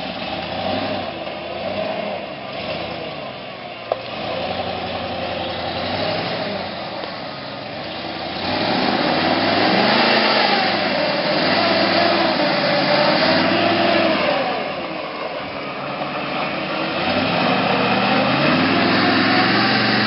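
A 1988 Ford F-150's 302 (5.0 L) V8 engine revving, its pitch rising and falling over and over, getting louder about halfway through.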